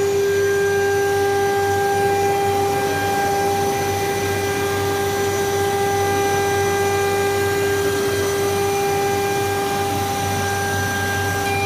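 CNC nesting router for furniture panels running, giving a steady high whine with a low hum and a haze of machine noise beneath it.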